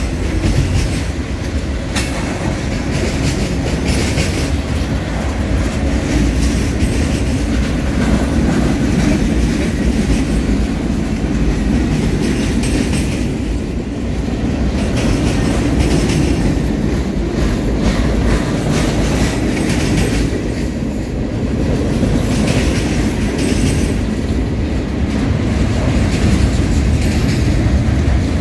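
Freight cars of a passing freight train rolling by close at hand. Steel wheels rumble steadily on the rails and clack over the rail joints.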